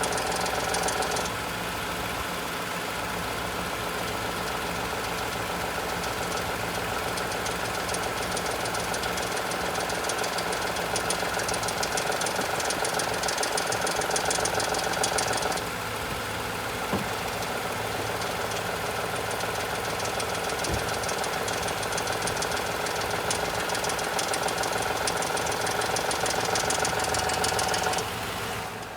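Toyota Tundra pickup engine running with a fast, even knocking noise whose cause the owner does not know. The level drops a little about a second in, again about halfway through, and once more near the end.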